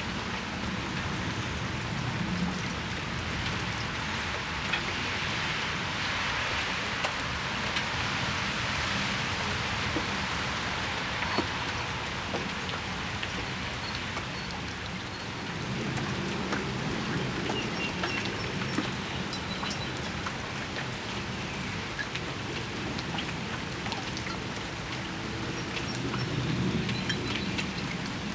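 Steady rain falling on a patio, with individual drops ticking sharply now and then. A low rumble swells under the rain twice, about halfway through and near the end.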